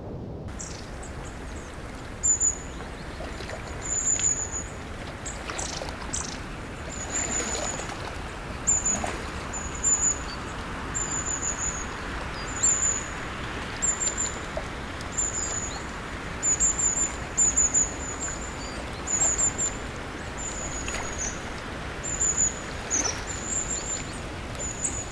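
Small bird chirping: short, very high-pitched chirps repeated every second or so, starting about two seconds in. Underneath is a steady hiss of running water.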